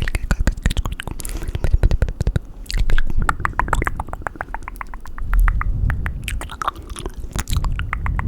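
Fast, wet mouth and tongue sounds close to the microphone: rapid clicking and smacking, many clicks a second.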